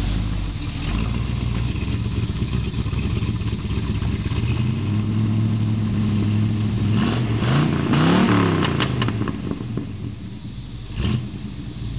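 1968 Chevrolet Camaro's 327 small-block V8 running at idle, revved up briefly and back down about eight seconds in. A sharp knock near the end.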